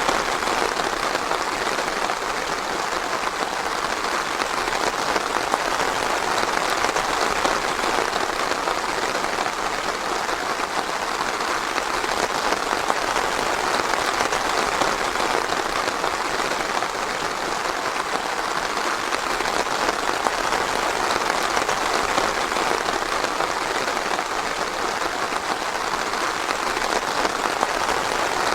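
Steady, dense rainfall, a continuous even patter of drops.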